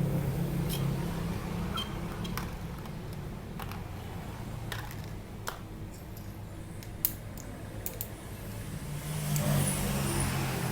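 Small plastic helmet phone-mount parts (pivot arm, J-hook, flat and curved mounts) being handled, giving scattered light clicks and taps, with one sharper click about seven seconds in, over a steady low hum.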